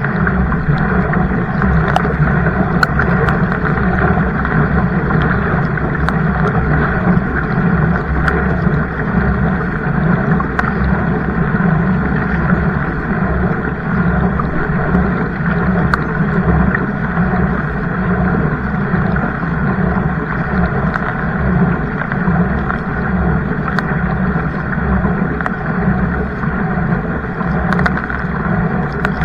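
Steady, loud rushing of water and wind around a kayak on the move, with a few faint knocks scattered through.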